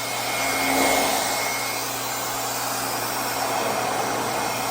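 Revair reverse-air hair dryer running steadily on its no-heat setting: a constant rush of suctioned air with a faint whine.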